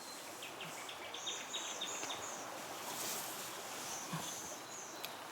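Tropical forest ambience with a quick run of high ticking calls and a few short, very high chirps from small wild animals.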